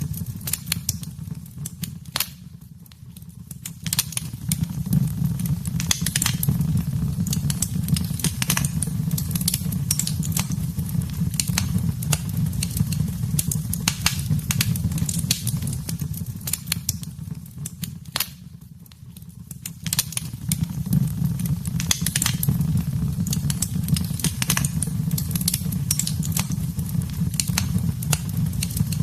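Wood fire burning in a fireplace: dense, irregular crackles and pops over a steady low rumble. Twice, for a second or two, the sound dips quieter before coming back.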